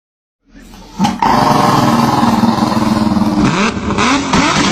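An engine running, coming in suddenly about a second in, its pitch dipping and rising briefly near the end.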